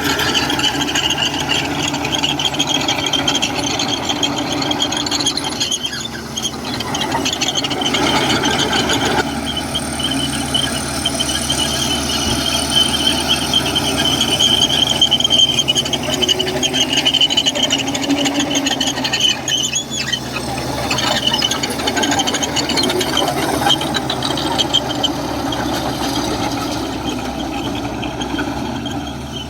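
Komatsu bulldozer working, its engine running with a continuous high-pitched squeal over it.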